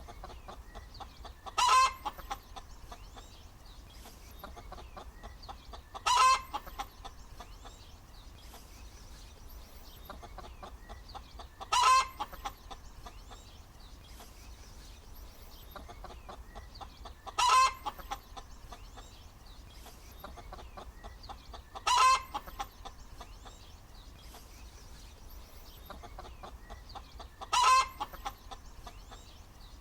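Hen cackling: a steady run of soft clucks, broken by a short, loud call about every five seconds, six times.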